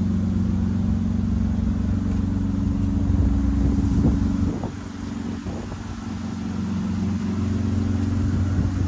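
Non-turbo Toyota Supra Mk4's 2JZ-GE straight-six idling steadily. It gets quieter about four and a half seconds in and slowly builds back up.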